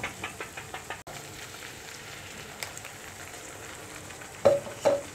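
Tomato-cashew masala paste frying gently in oil in a pan, a low steady sizzle, with a few light scrapes of a wooden spatula in the first second. Near the end, two short knocks as the water-thinned rest of the paste is added.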